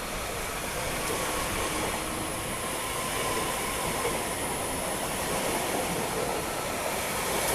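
Two coupled Class 331 electric multiple units pulling out of the platform, with a steady noise of wheels on rail and a faint thin whine over it.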